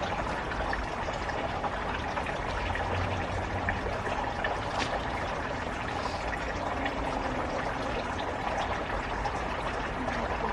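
A steady rushing noise like running water, with a few faint small clicks.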